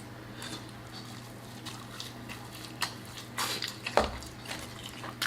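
Close-up eating and handling sounds from boiled crawfish and shrimp being peeled and eaten: scattered wet squishes, shell clicks and crackles, denser in the second half, with a sharper crack about four seconds in. A steady low hum runs underneath.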